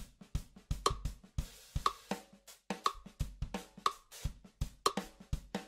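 Background music: a quiet drum-kit beat of kick, snare and hi-hat, with a brighter accent about once a second.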